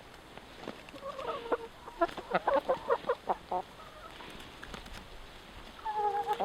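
Chickens clucking: a quick run of short calls from about one to three and a half seconds in, then another call near the end.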